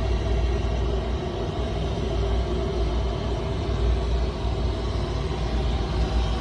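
Steady low rumble of a large jet aircraft's engines, unchanging in pitch and level.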